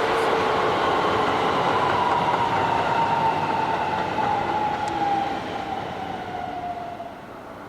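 Electric train running past at speed, wheels and rails rumbling with a motor whine that slowly falls in pitch; the noise fades away over the last few seconds.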